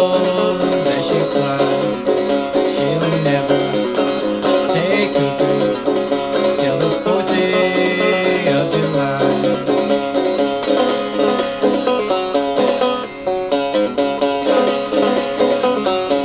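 Banjo picked in a quick, steady rhythm: an instrumental break with no singing.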